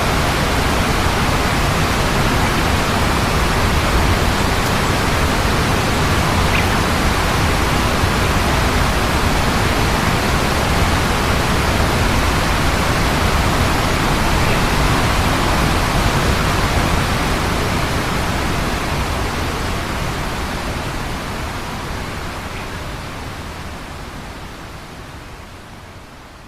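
Loud, steady rushing noise that fades out gradually over the last ten seconds or so.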